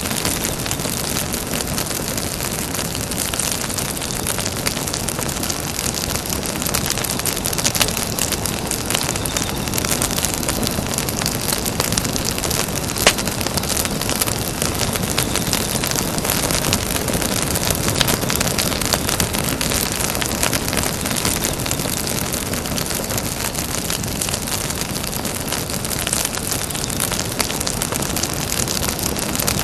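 Campfire burning: a steady hiss of flames with many small crackles and one louder pop near the middle.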